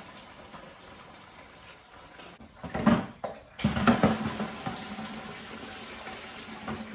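Engine coolant draining from the radiator and splashing steadily into a drain pan. There are two louder knocks or handling noises about three and four seconds in.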